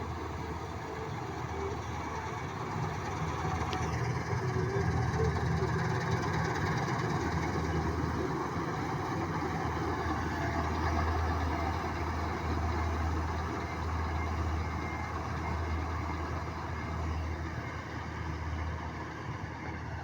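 Diesel engine of farm harvesting machinery running steadily under load, a deep hum with machine clatter over it, swelling slightly midway.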